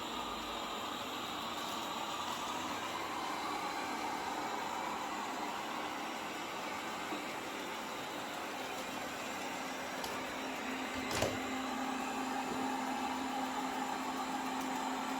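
Samsung VR30T85514 robot vacuum running steadily on its automatic cleaning run, its suction motor and brushes giving an even whir. About two-thirds of the way through there is a single knock, and after it a steady low hum joins the whir.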